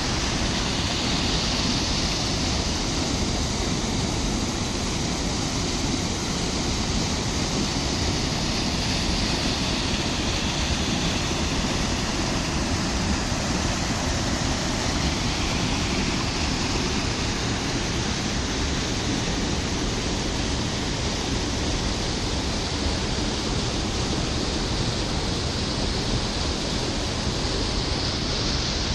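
Steady rushing of flowing river water, an even hiss and rumble that does not change.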